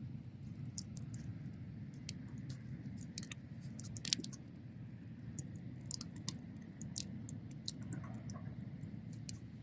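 Wood bonfire burning, with a low steady rumble under irregular sharp crackles and pops, the loudest pop about four seconds in.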